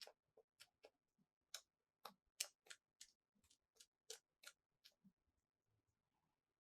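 Small plastic toy pieces clicking and tapping together as they are handled. There are about fifteen sharp, irregular clicks over the first five seconds, then only a few faint ones.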